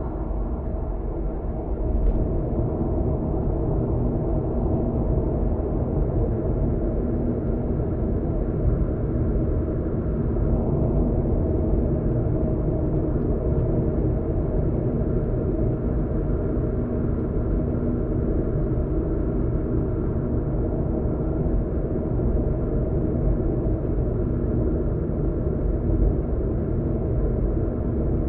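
A car being driven: steady rumble of tyre and engine noise with a low, even drone, and one small knock about two seconds in.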